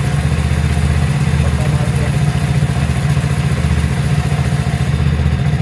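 Motorcycle engine idling steadily with an even, rapid low pulse.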